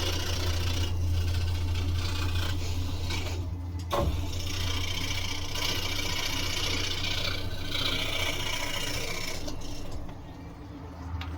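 Scroll saw running, its blade cutting through wood with a steady hum and a rasping hiss. There is a sharp click about four seconds in, and near the end the cutting noise drops away, leaving a quieter hum.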